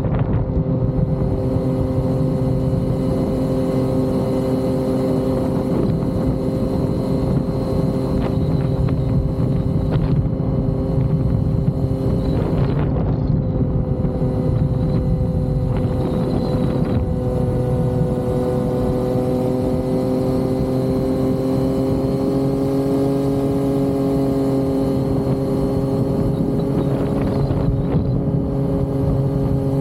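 Yamaha XSR900's three-cylinder engine running at a steady speed while the motorcycle is ridden, its pitch rising slightly about two-thirds of the way through.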